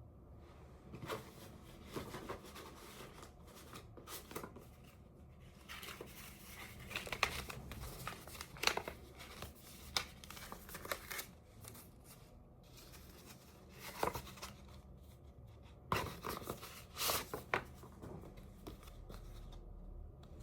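Intermittent rustling, crinkling and small clicks of things being handled, in irregular clusters with quieter gaps between.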